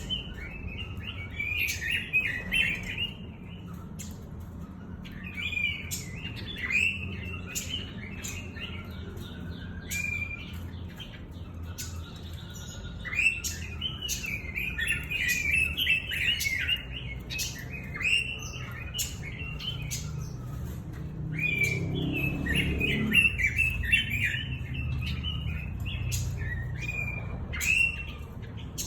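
Pekin robin (red-billed leiothrix) singing, bursts of quick chirpy warbling phrases with short pauses between them, over a steady low hum and a few sharp clicks.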